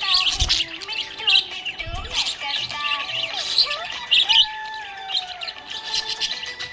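Budgerigars chirping and warbling together: a busy, continuous stream of short, sharp chirps over lower sliding warble notes.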